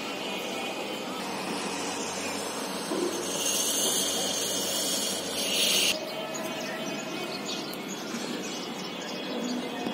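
Steady outdoor street and rail-side noise, with a louder hiss lasting about two and a half seconds that cuts off suddenly about six seconds in.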